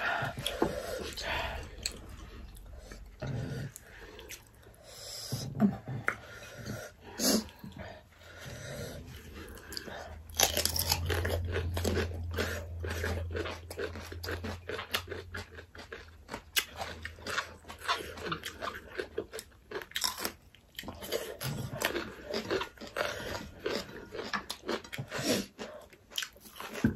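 Close-miked eating: chewing and crunching of food, including raw green chillies, with frequent sharp crunchy clicks that thicken from about ten seconds in, along with sniffs from the chilli heat.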